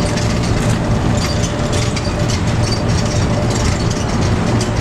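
Airport people-mover shuttle car moving along its guideway, heard from inside the cabin: a steady low rumble and running noise.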